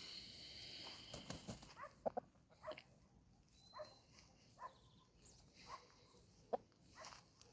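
Faint, scattered short clucks and clicks from a pair of game chickens foraging in grass.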